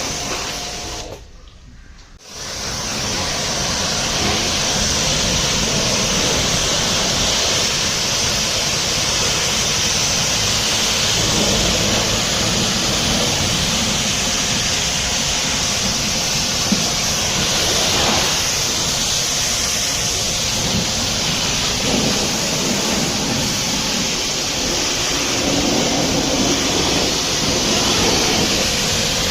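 High-pressure water jet spraying steadily onto a truck being washed, a dense even hiss; it almost drops out about a second in and comes back strongly a second later.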